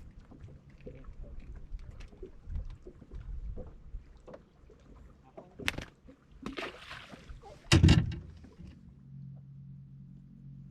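Small knocks and clatter of handling gear in a fishing boat, with a sharp click, a brief splash-like rush and then a heavy thump about eight seconds in. Near the end a steady low hum starts and keeps going.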